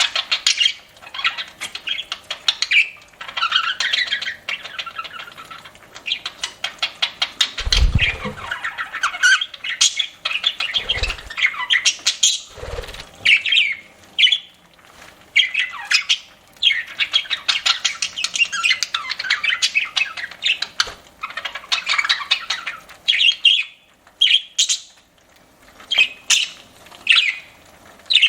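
Pet budgerigars chirping and chattering in quick, busy trains of short calls and squawks, with three brief low thumps in the middle.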